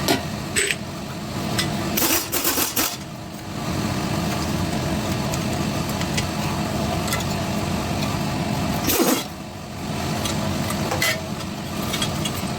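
Impact wrench with a 14 mm socket running steadily on the exhaust manifold bolts of a small-block Chevy 350, pausing briefly about nine seconds in and then running again.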